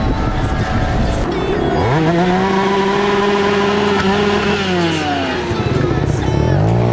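Kitted 50cc two-stroke motorcycle engine revving: it climbs about two seconds in, holds a steady high pitch, drops off around five seconds, and climbs again near the end.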